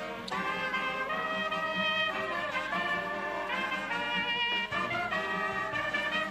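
Brass music playing slow held chords that change every second or so.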